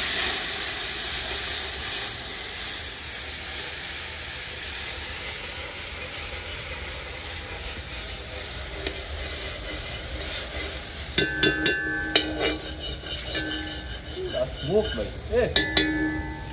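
Water poured into a pot of curry frying in hot oil hits with a loud hiss and sizzle, then settles to a steady sizzle as it steams. About eleven seconds in, and again near the end, a metal ladle knocks and scrapes against the metal pot with short ringing clanks.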